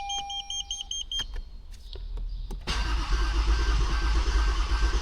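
A car's dashboard warning chime beeps briefly and a few clicks follow. About two and a half seconds in, a Toyota Avalon engine is cranked and catches, running loud and steady while water is still being cleared from its fuel injectors.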